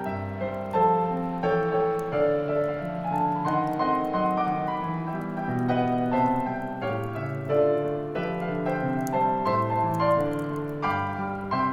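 Background solo piano music: a calm piano medley of Christmas songs, notes following one another without a break.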